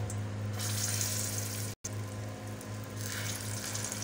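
Beef shami kababs sizzling as they shallow-fry in hot oil in an aluminium pan, over a steady low hum. The sizzle swells twice, and the sound breaks off for an instant a little under two seconds in.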